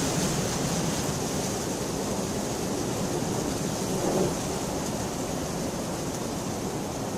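Steady heavy rainfall, a dense even hiss, with a brief swell about four seconds in.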